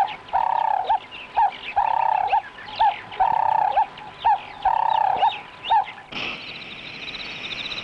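A bird calling over and over in pairs, a longer ringing note followed by a short sharp note, about one pair every second and a half. About six seconds in the calls stop and a steady high insect trill takes over.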